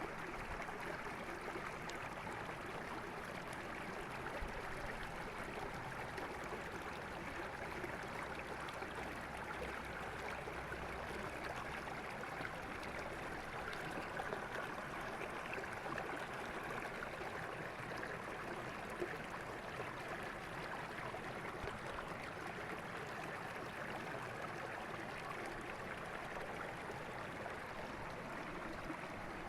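River water flowing steadily over rocks, a constant rushing and gurgling with no letup.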